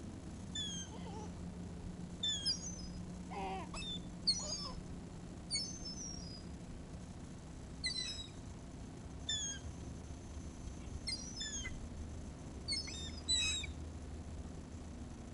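Seagulls giving short, high, downward-sliding calls, one or a few every second or two.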